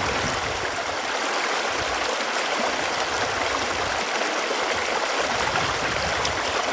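Running water flowing steadily, an even rush with small bubbling gurgles scattered through it.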